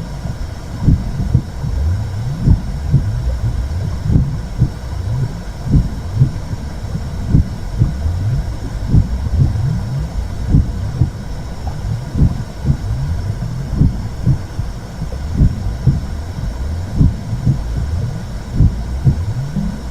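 Womb sound for calming a baby: a continuous low whooshing rumble with a muffled heartbeat thumping at regular intervals.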